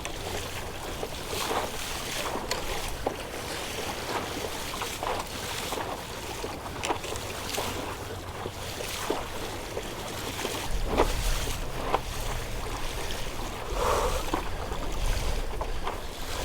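Kayak on the open sea: water splashing and lapping against the hull about once a second, with wind rumbling on the microphone.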